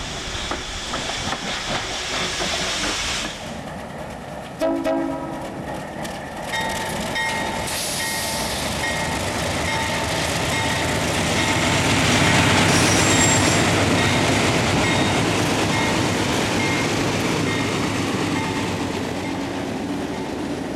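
A train running past on the rails: a steady rail noise with wheel clicks, a short horn blast about five seconds in, then a repeating ringing tone as the train noise grows to its loudest around the middle.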